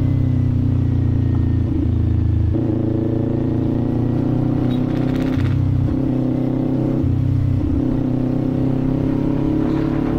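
Kawasaki Z400 parallel-twin engine running under way. The pitch shifts up and down several times with throttle or gear changes, then climbs slowly near the end.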